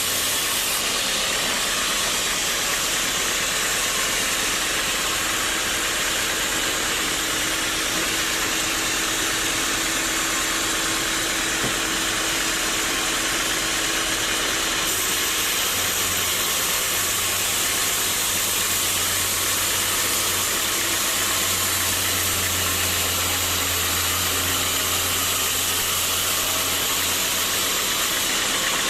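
Sawmill saw machinery running steadily, a loud even mechanical noise, with a deeper hum coming in about halfway through and easing off near the end.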